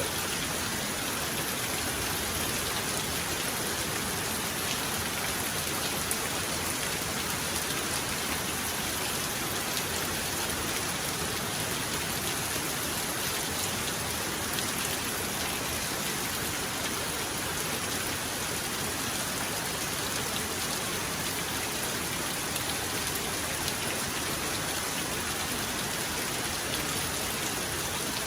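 Heavy rain falling steadily, a dense even hiss of drops on surfaces, with no thunder.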